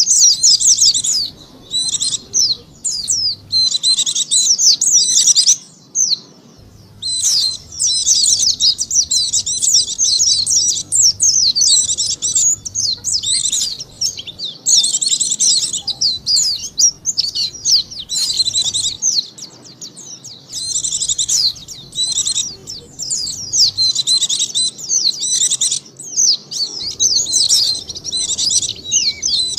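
White-eye (pleci) song played as a lure call: a rapid, high twittering in phrases of a second or two with short breaks between them, the longest break about six seconds in.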